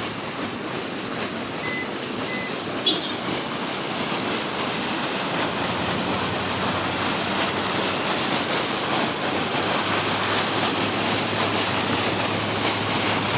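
Steady rush of flowing water, a continuous hiss that grows slightly louder over the seconds, with one brief click about three seconds in.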